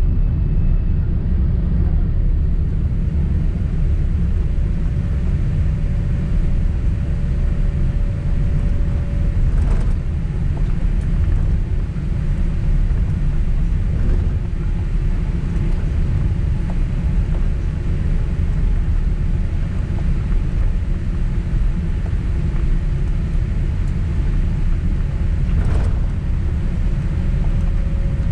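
Steady low rumble of cabin noise inside a Boeing 767 airliner taxiing on the ground after landing, with two faint clicks, one about ten seconds in and one near the end.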